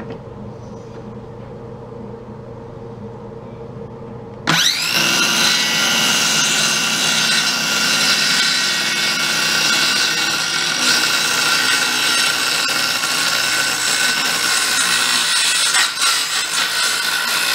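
Electric power saw cutting a wooden support board for a pool table frame. It starts about four and a half seconds in with a whine that rises as the blade spins up, then runs steadily through the cut.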